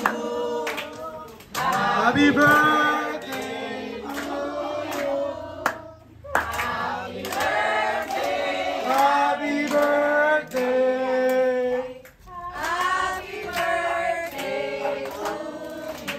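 A group of people singing a song together, with hands clapping along. The singing breaks briefly between lines.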